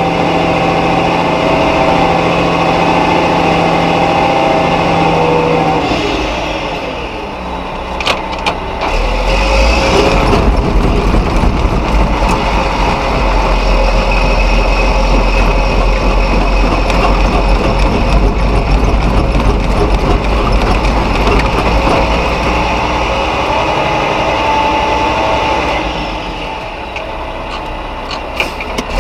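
Mack RB concrete truck's diesel engine working hard under load, stuck in soft sand. It holds a steady high-rev note, falls off in pitch about six seconds in, gives a few clicks near eight seconds, then climbs back into a loud, rough low rumble for most of the rest before easing off again near the end.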